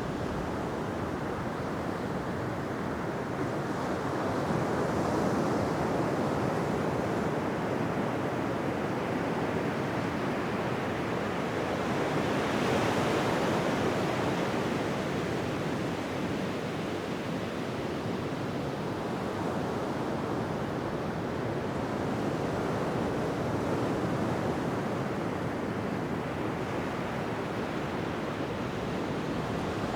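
Ocean waves breaking and washing onto a beach: a continuous rush of surf that swells about five seconds in and more strongly around thirteen seconds in.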